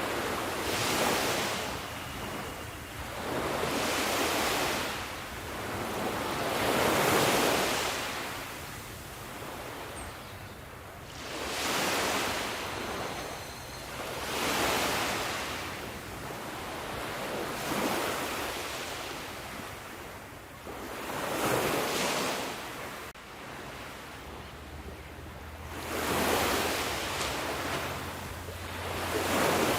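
Ocean waves breaking and washing in, one swell of surf every few seconds followed by a fall back to a softer hiss.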